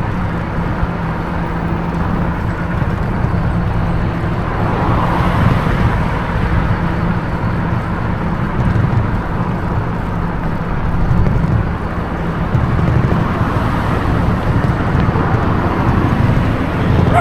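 Road and wind noise while riding an e-bike along a roadside cycle lane, with a steady low rumble and motor traffic swelling past about five seconds in and again near the end.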